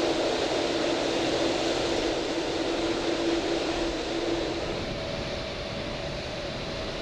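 Jet airliner engines at the runway: a steady, broad rush with a low humming tone that gives way to a higher tone about five seconds in.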